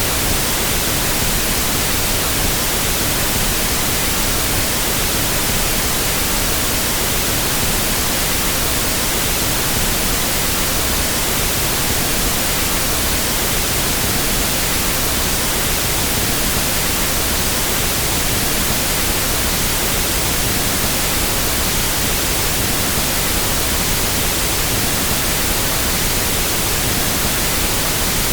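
Pink noise test signal for equalizing audio equipment: a steady, even hiss across the whole range, unchanging throughout.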